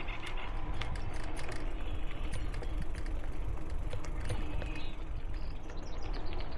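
Bicycle ridden along a rough dirt trail in strong wind: a steady low rumble of wind on the microphone and tyres on the ground, with many light clicks and rattles from the bike.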